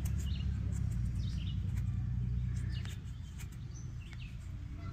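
Small birds chirping in short, repeated calls over a steady low rumble that eases off about three seconds in, with a few faint clicks.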